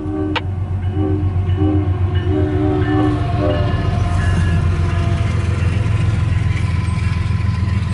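Diesel locomotive air horn sounding a string of short and longer blasts for about the first three and a half seconds, over the heavy rumble of the locomotives' engines. The rumble grows louder as the CSX intermodal train approaches, then holds steady.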